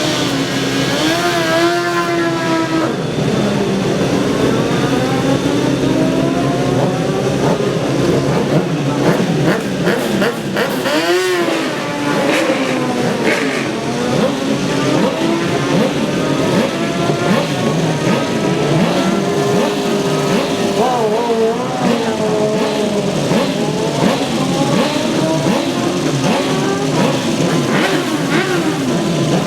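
Several racing superbike engines running at once, revving and accelerating away one after another, their pitch repeatedly rising and falling.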